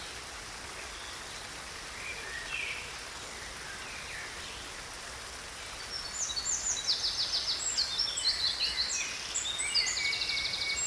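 Steady rush of a waterfall, with a songbird chirping faintly a few times, then singing a quick run of high trills and chirps from about six seconds in until near the end.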